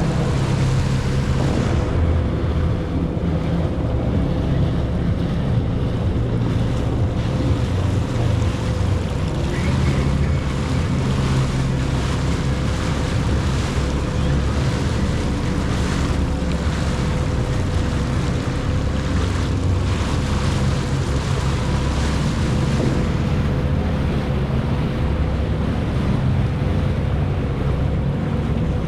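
Jet ski running steadily over open water, its engine drone mixed with water rushing past the hull and wind buffeting the microphone.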